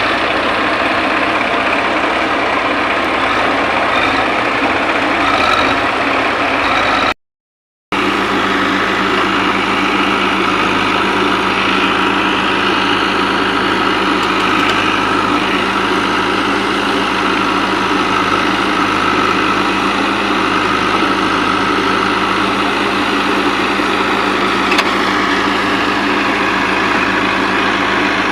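Diesel engines of a JCB 3DX backhoe loader and farm tractors running steadily during mud loading. The sound drops out for a moment about seven seconds in.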